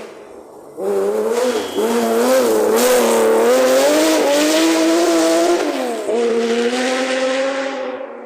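Rally car engine at hard throttle, comes in loud about a second in, with the revs rising and falling. The revs drop briefly about six seconds in, as at a gear change, then it runs on and starts to fade near the end.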